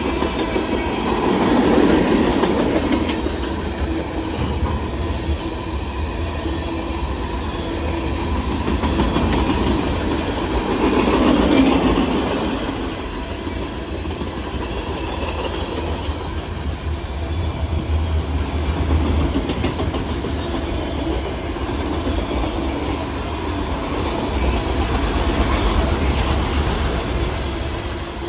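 Freight train cars rolling past at close range, their steel wheels running over the rails in a continuous clatter that swells and eases several times as the cars go by.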